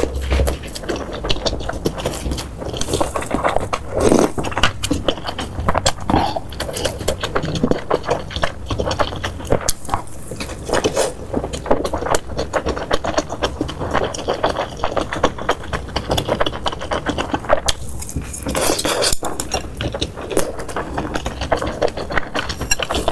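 Close-miked eating sounds: dense, irregular chewing and crunching, with clicks and scrapes of utensils against the dishes.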